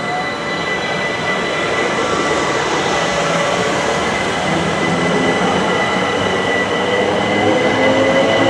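A train running on the line and growing steadily louder as it approaches. A steady high whine runs throughout, and a lower whine rises in pitch near the end.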